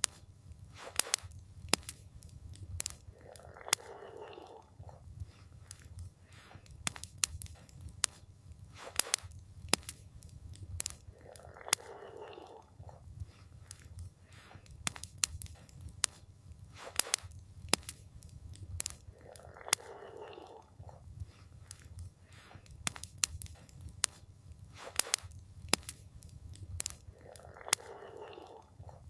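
Wood campfire crackling: sharp, irregular pops over a steady low rumble, with a soft hiss that comes back about every eight seconds.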